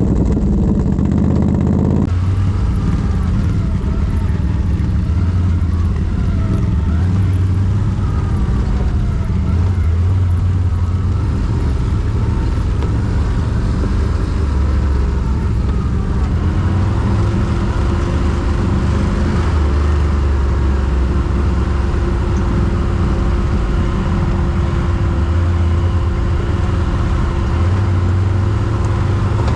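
Quad bike (ATV) engine running steadily while riding. A steady whine joins it about halfway through.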